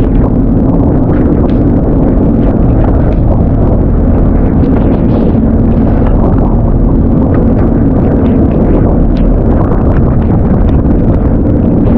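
Small fishing boat's engine running steadily, with strong wind rumbling on the microphone.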